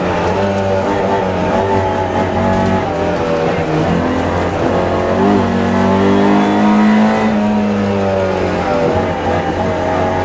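Opel Kadett GT/E rally car's four-cylinder engine heard from inside the cabin, revving hard, its pitch rising and falling as it is driven through the gears between bends.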